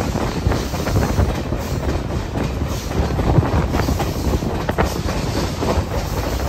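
Passenger train running along the track: a steady rumble of wheels on rail with frequent short clicks, as wheels pass over rail joints.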